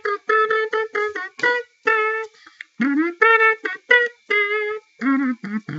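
Electronic keyboard playing a melody of short, separate notes, many of them repeating the same pitch.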